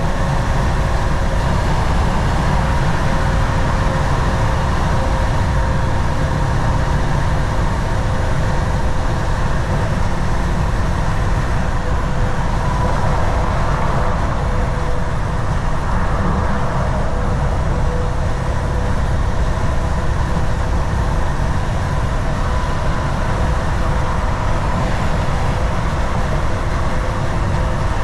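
Volvo VNL 760 semi truck cruising at steady highway speed: an even, low engine and road rumble with a faint steady whine above it.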